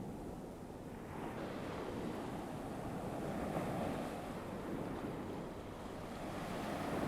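Ocean surf sound effect: waves washing on a shore as a steady rushing noise that slowly swells and eases.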